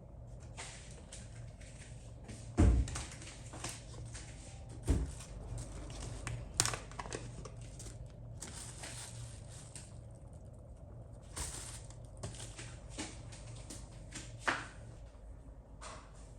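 Household objects being handled: a series of irregular knocks and clicks, the loudest about two and a half, five and six and a half seconds in, with light crinkling between.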